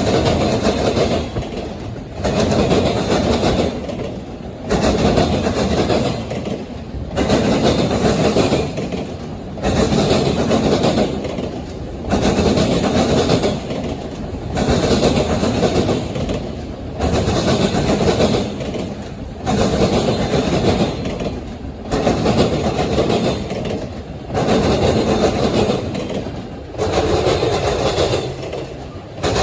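CSX freight train rolling past, its cars' wheels clattering on the rails. The sound swells in a regular rhythm about every two seconds.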